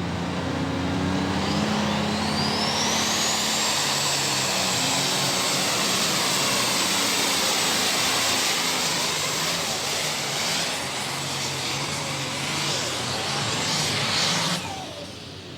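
Turbocharged diesel super stock pulling tractor running at full throttle on a pull. Its turbo whine rises over the first few seconds and holds high, and the engine sound cuts off suddenly near the end as the run ends.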